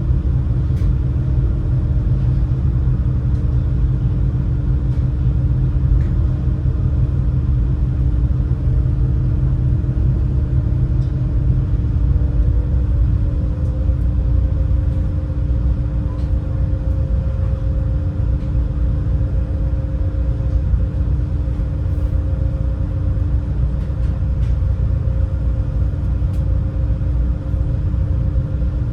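Steady, loud drone of the Super Jet high-speed passenger boat's engines running underway, heard aboard, with a low rumble and a steady hum; about halfway through the hum's pitch shifts slightly higher.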